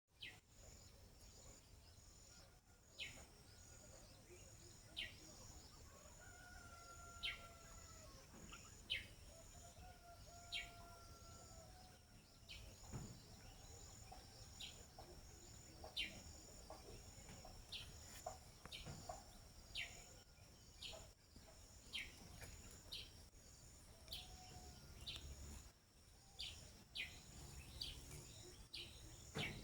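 Faint bird chirping: one short high chirp sliding downward, repeated every second or two, over a steady high hiss. A rooster crows faintly twice, about a quarter and a third of the way in.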